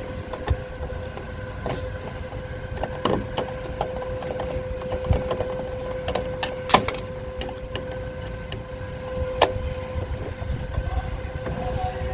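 Scattered clicks and knocks of scrap parts being handled and taken apart, over a steady humming tone.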